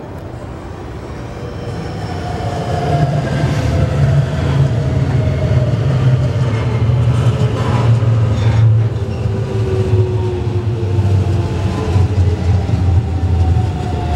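A JR West 221 series electric train running past close by: a heavy rumble of wheels on the rails that builds over the first few seconds as the cars draw level, with a motor whine that slowly falls in pitch.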